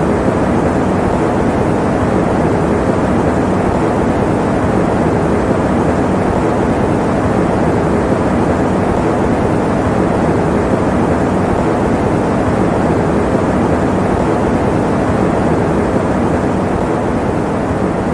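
Electric fan running: a steady, unchanging rush of noise, full in the low and middle range with little high hiss, used as white noise for sleep.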